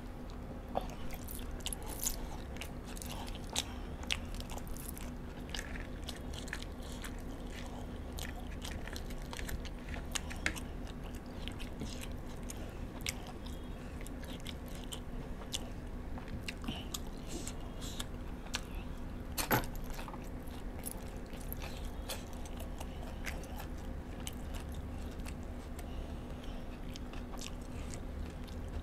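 Close-miked chewing and biting of sauce-coated chicken wings, with scattered small wet clicks and crunches, and one sharper click about two-thirds of the way through. A steady low hum sits underneath.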